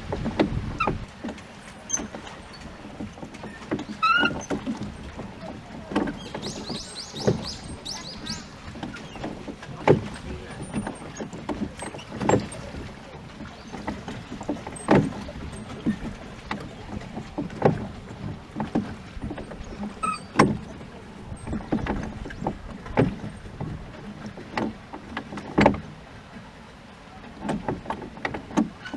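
A rowboat being rowed: oars knocking in the oarlocks and dipping into the water, a stroke about every two to three seconds.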